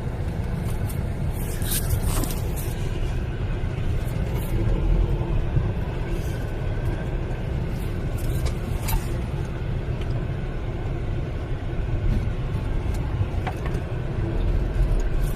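A car driving: a steady low rumble of engine and tyres on the road, with a few short knocks or rattles.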